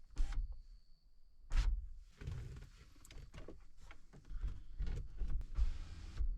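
A series of dull thumps and knocks, several close together in the second half, with a brief rustling hiss near the end.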